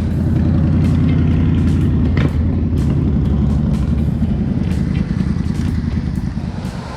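A motor vehicle's engine running close by: a loud, steady low rumble that swells at the start and eases off toward the end.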